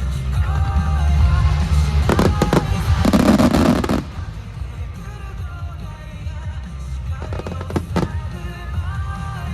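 Aerial fireworks bursting over a pop song. A cluster of sharp bangs comes about two seconds in, then a dense volley of rapid bursts lasts about a second and cuts off abruptly. A few more bangs follow near the end.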